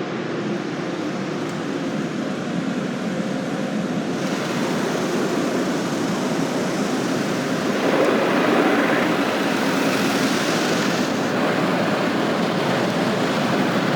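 Car wash water spray and air blowers heard from inside the car, a steady rushing that grows louder about four seconds in and again about eight seconds in, with a brighter hiss for a few seconds.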